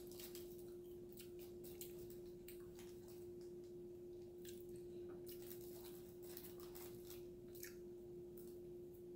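Faint chewing and lip smacking while eating a hamburger and fries, made of scattered short wet clicks, over a steady low hum.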